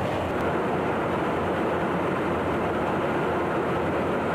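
Fighter jet engines running, a steady, even noise with no change in level.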